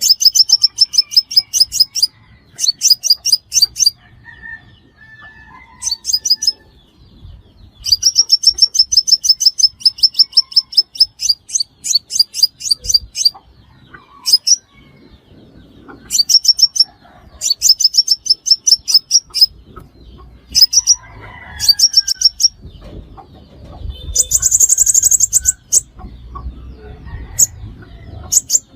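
Sunbird calling: rapid trilled runs of high, sharp chips, each run lasting one to three seconds with short pauses between, and one higher, buzzier burst about two-thirds of the way through. A lure recording for trapping sunbirds.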